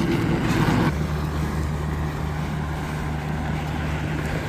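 A motor vehicle engine running steadily, its note dropping to a lower, even pitch about a second in as the revs fall.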